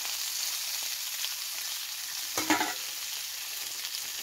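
Burgers and bacon frying over a campfire: a steady high sizzle dotted with small crackles and pops, with one brief louder noise about halfway through.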